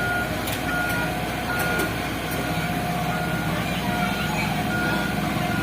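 Truck reversing alarm beeping in repeated short tones over the low hum of the truck's engine running. The engine hum grows louder about halfway through.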